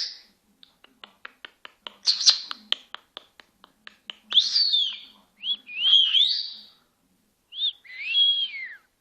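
Senegal parrot making a quick run of clicks, about four or five a second, then a string of short whistled calls that rise and fall in pitch.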